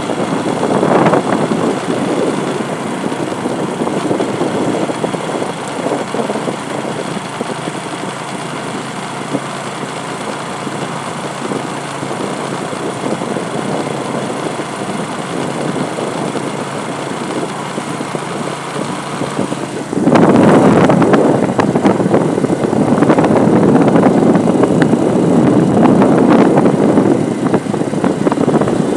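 A motor vehicle running, heard as a dense, rough noise that jumps suddenly louder about two-thirds of the way through.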